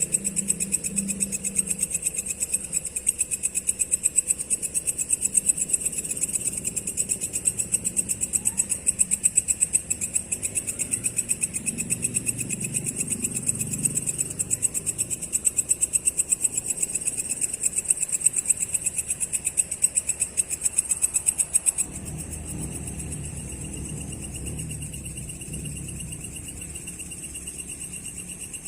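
Crickets chirping at night: a high-pitched, rapidly pulsing chirp, loud and continuous. A bit over two-thirds of the way through it drops to a softer, steadier trill over a low rumble.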